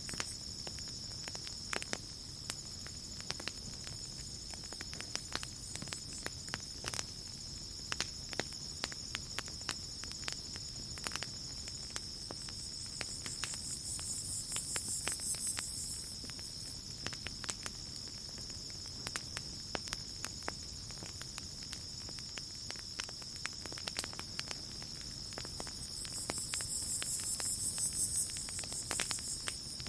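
Campfire crackling with scattered sharp pops over a steady chorus of crickets. Twice a higher-pitched hiss swells for a couple of seconds and fades.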